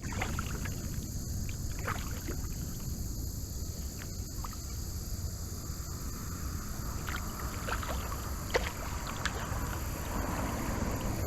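Kayak paddle strokes in river water: small splashes and drips now and then, over a steady low rumble.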